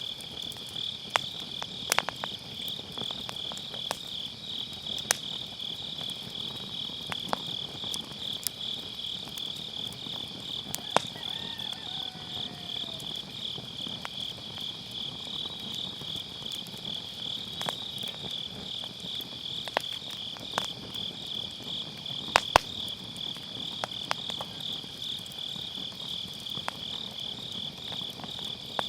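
Grass insects chirping in a steady, pulsing high chorus over a wood fire crackling with scattered sharp pops. The loudest pops are a close pair a little past the middle.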